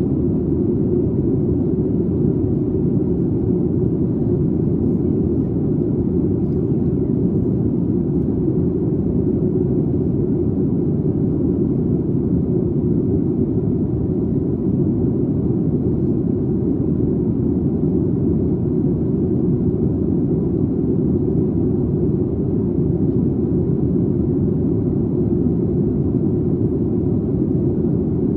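Steady low drone inside the cabin of a Boeing 737 MAX 8 in flight, from its CFM LEAP-1B engines and the airflow over the fuselage, heard just behind the wing. The level holds even throughout, with no change in engine power.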